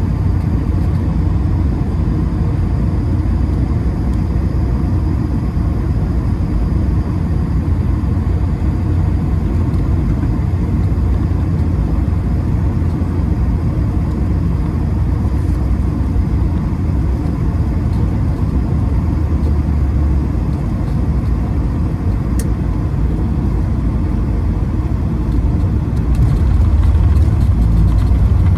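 Steady low rumble inside the cabin of an Airbus A220-300, from its Pratt & Whitney PW1500G geared turbofan engines and the airflow, with the rumble growing a little louder near the end.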